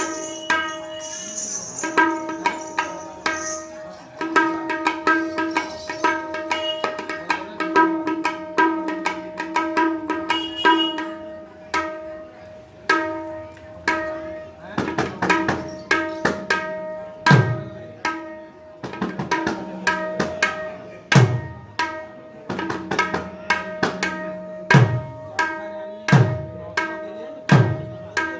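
Mridanga drum played solo in fast rolling patterns: crisp ringing strokes on the treble head at a steady pitch. From about halfway in, deep bass strokes whose pitch slides downward come in every second or two.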